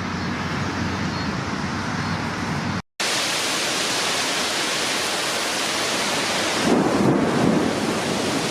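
Steady road and engine noise inside a vehicle, then after an abrupt cut a dense, even roar of severe-storm wind and heavy rain, with a louder low rumble of thunder about seven seconds in.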